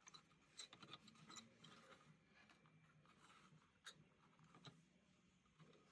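Near silence with faint, scattered clicks and light rubbing from small-scale handwork on thin copper wire, a few distinct ticks about half a second to a second in and again near four seconds.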